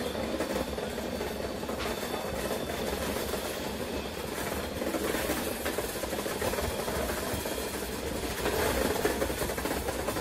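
A passenger train in motion, heard from on board: a steady running noise of the carriage and wheels on the track.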